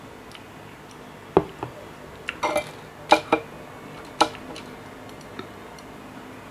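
Sharp clicks and clinks of an eating utensil against a cup or bowl, about seven in a few seconds, the loudest about three seconds in.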